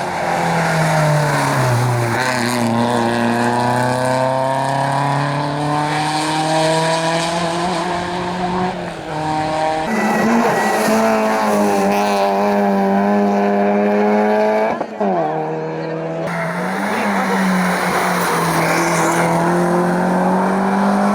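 A race car's engine running hard on a hillclimb, its pitch sliding down, holding and jumping again with throttle and gear changes, with a brief lift about two-thirds of the way through.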